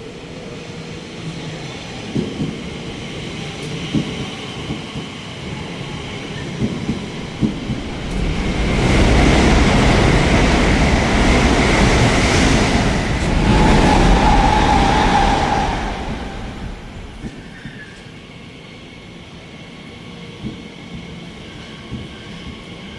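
A train passing close by along the track: a low rumble with scattered clicks builds to a loud passage lasting about seven seconds, with a brief held tone near its loudest point, then dies away to a distant rumble.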